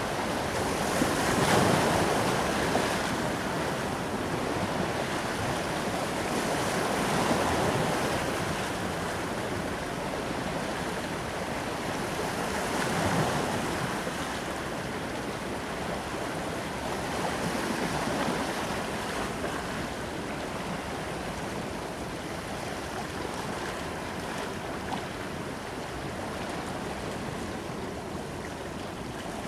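Ocean waves breaking and washing up on a beach, a steady surf hiss that swells with each wave about every five to six seconds and settles a little calmer near the end.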